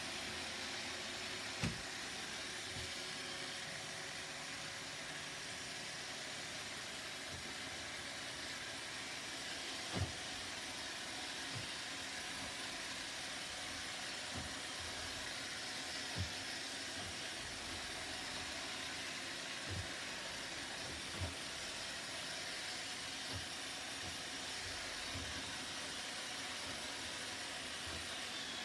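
Roomba robot vacuum running with a steady whir, broken by scattered short knocks, the loudest about 2, 10, 16 and 21 seconds in.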